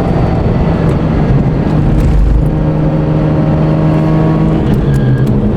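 Mazda RX8's rotary engine running under way at a steady note, dropping in pitch near the end as the car eases off.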